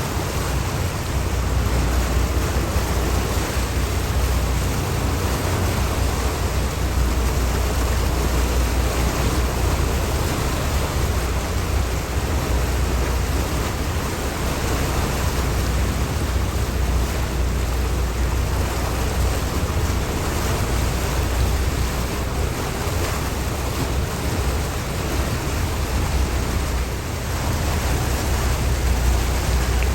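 Steady rushing of wind and water with a constant low rumble underneath.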